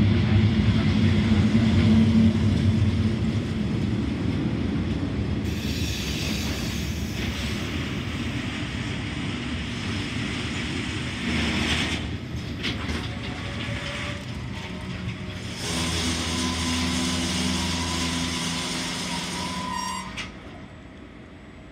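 FS class E652 electric locomotive passing close by with a steady low hum, followed by its train of open freight wagons rolling and rattling over the rails. A thin squealing tone from the wheels joins in the later part, and the sound drops away just before the end.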